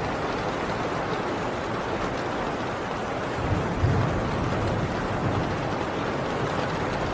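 Heavy rain drumming steadily on a tin roof, an even hiss. About halfway through, a brief low rumble of distant thunder rises under the rain.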